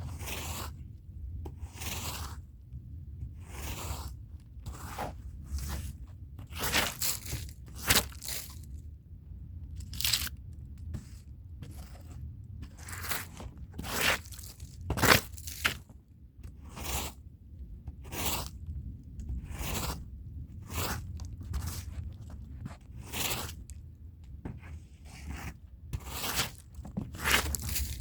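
Stiff hand brush scrubbing a rug's pile, a run of short rasping strokes at roughly one a second, some harder than others.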